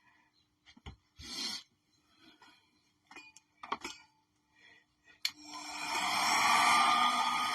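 Small handling sounds, light taps and rubbing of tools and paint containers, then about five seconds in a hairdryer switches on and blows steadily, its motor whine rising slightly as it comes up to speed.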